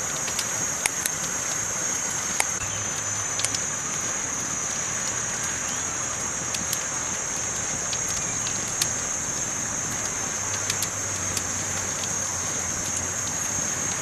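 Campfire burning: a steady high hiss with irregular sharp crackles and pops from the burning wood.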